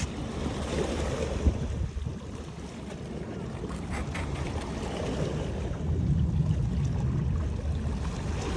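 Wind buffeting the microphone outdoors, a gusting low rumble that dips about two seconds in and swells again near six seconds, with a few faint knocks.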